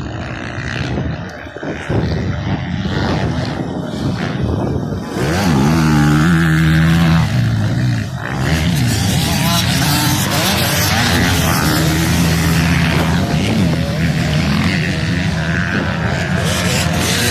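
Motocross bike engines racing, revving up and down with rising and falling pitch, getting louder about five seconds in as bikes come close.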